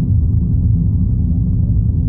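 Airliner cabin noise: the jet engines and rushing air make a loud, steady low rumble inside the passenger cabin.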